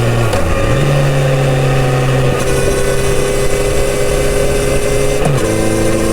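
Kawasaki Z900RS inline-four engine through its stock exhaust, running under way with a steady note. The pitch dips and comes back up about half a second in, then drops to a lower steady note a little after five seconds.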